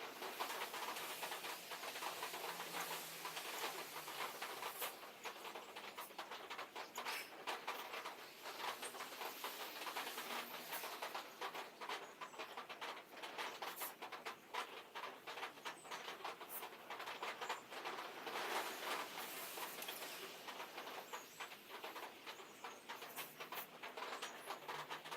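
Sheet steel panel being run through a bead roller: a continuous faint scratching with many small irregular clicks and creaks.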